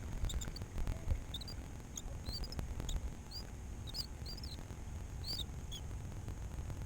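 A small bird chirping repeatedly in short, high, pitch-bending notes, over a steady low rumble, with a few sharp knocks in the first second or so.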